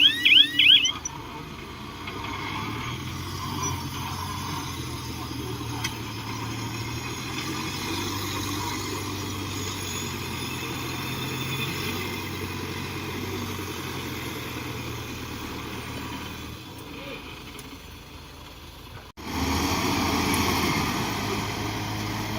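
A heavy machine's engine running steadily at a low hum, cut off abruptly about 19 seconds in, after which the engine sound comes back louder. A fast electronic chirping alarm sounds for the first second.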